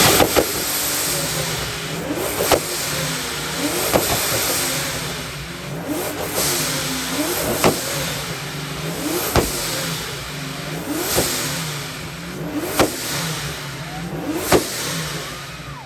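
A car engine with a loud exhaust being revved hard over and over, about once every second and a half to two seconds, with a sharp exhaust pop or bang on most of the revs, the kind of backfire that goes with an exhaust shooting flames.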